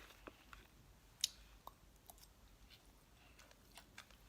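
Faint, sparse mouth clicks of someone chewing takoyaki, with one sharper click about a second in.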